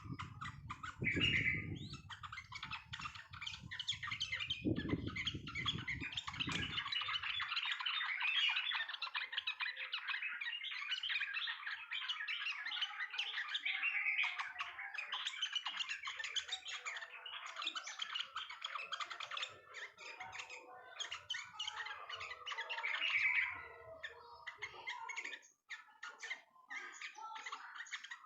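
Yellow-vented bulbuls giving a dense, fast, continuous chattering song with rapid chirps. A few low thuds sound during the first several seconds.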